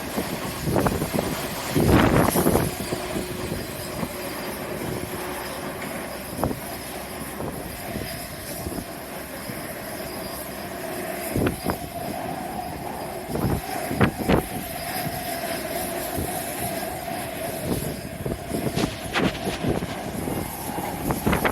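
Steady whine of jet airliner engines across the apron, a held mid-pitched tone with a faint high hiss above it. Strong wind buffets the microphone in gusts, loudest about two seconds in and again around fourteen seconds.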